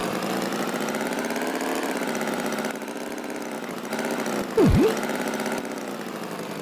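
Tractor engine running steadily. About two thirds of the way in, a quick swooping sound drops sharply in pitch and rises back up.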